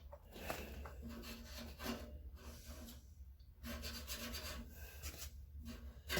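Rubbing and scraping of plastic parts as the washing machine's drain pump is worked loose by hand, in several stretches with short pauses between them.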